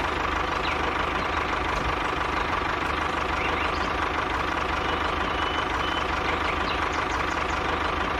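An engine idling steadily, with a fine, even pulse and no change in speed.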